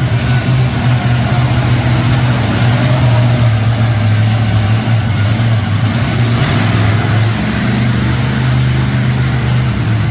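Monster truck engines running hard during a two-truck race, a loud steady low drone that holds much the same pitch.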